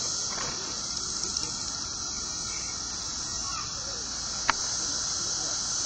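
Periodical cicada chorus: a steady, high-pitched drone, with one sharp click about four and a half seconds in.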